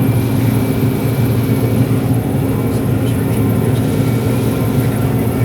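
Steady drone of a John Deere 9760 STS combine's diesel engine and threshing machinery under load while harvesting corn, heard from inside the cab.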